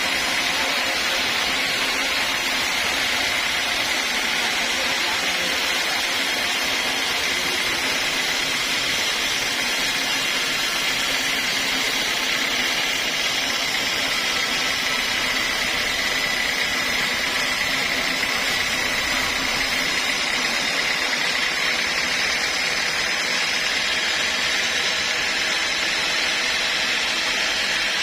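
A sawmill running steadily, a continuous machine noise with a steady high whine and no change in pace.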